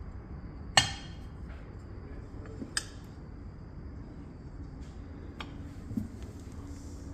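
Metal parts of a cast-iron wood stove clinking as they are handled: four sharp clinks spaced out over several seconds, the first the loudest, over a low steady hum.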